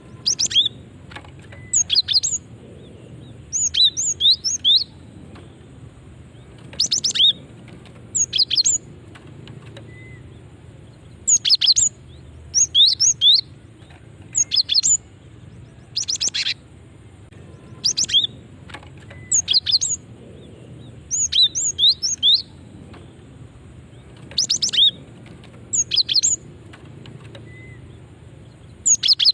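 Female cinereous tit (gelatik batu) calling: short bursts of quick, high chirping notes, a burst every second or two, the call a female uses to draw males.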